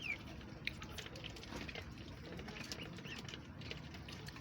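Ducks feeding from chicken feed, giving faint scattered pecking and tapping sounds. A short high falling chirp comes right at the start.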